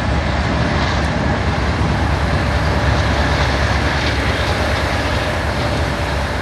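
Norfolk Southern coal train's rear diesel-electric locomotives and loaded coal cars running past and pulling away: a loud, steady rumble of engines and wheels on rail.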